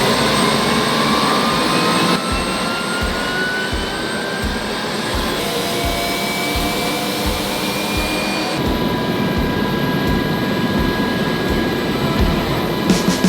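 UH-60 Black Hawk helicopter's turbine engines whining, their pitch rising for the first couple of seconds and then holding steady, over the regular low beat of the main rotor.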